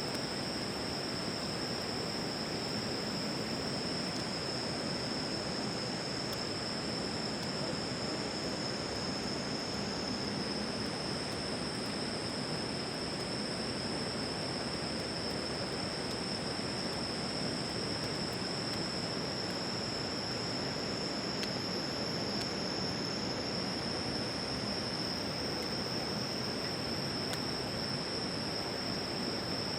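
Crickets and other night insects chirring continuously: one steady high trill, with fainter, higher insect songs starting and stopping above it, over a steady background hiss.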